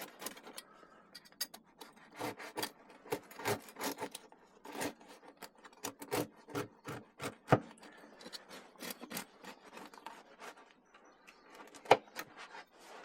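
Chef's knife sawing through the crusty loaf of freshly baked bread, an irregular run of rasping, crunching strokes with a sharp click about seven and a half seconds in and another near the end.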